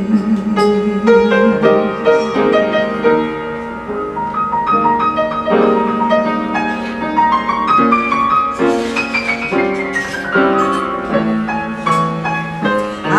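Piano playing an instrumental interlude of the ballad accompaniment, with a descending run of notes about two-thirds of the way through.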